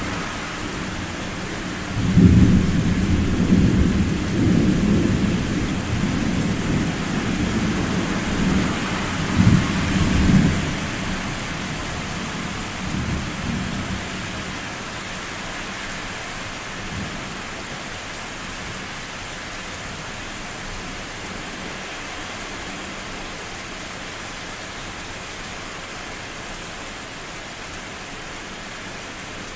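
Thunder in a summer thunderstorm: a deep rumble breaks out suddenly about two seconds in and rolls on for about nine seconds, with a few small swells after it, over the steady hiss of rain falling.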